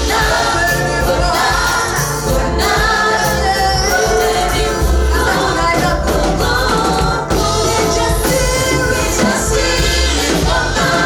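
A choir singing gospel praise music with a band, bass strong and steady throughout.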